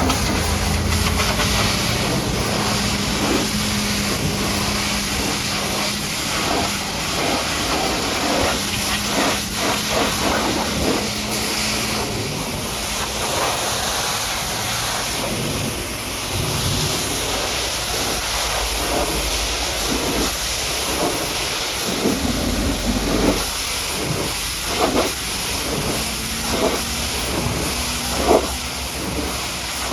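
High-pressure washer jet spraying water onto a muddy truck: a steady loud hiss broken by sharp spattering hits as the jet strikes the bodywork. A low steady hum runs underneath for the first dozen seconds and returns near the end.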